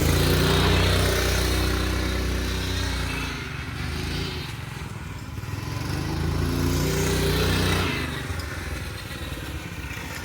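Single-cylinder small engine of a home-built two-wheel-drive motorcycle running with its governor removed. It grows louder and softer twice as the bike is ridden.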